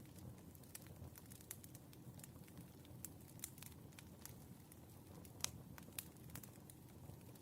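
Firewood burning with a soft crackle: scattered sharp pops and snaps over a low, steady rumble of the flames, with the loudest pop a little past the middle.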